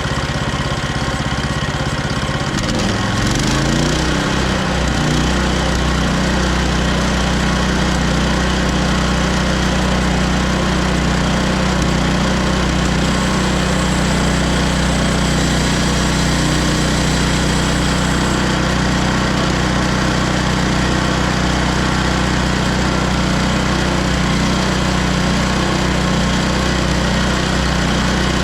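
Engine of a Hudson HFE30 bandsaw sawmill running steadily. About three seconds in its pitch shifts and it settles a little louder, then holds steady.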